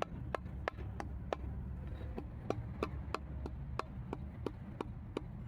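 Sharp clicks or taps repeating about three times a second, fairly evenly, over a steady low rumble.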